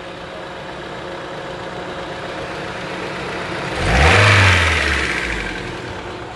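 Car engine idling steadily and then revved once about four seconds in, the pitch rising and dropping back to idle. The engine is running again after a no-start fault that has just been fixed.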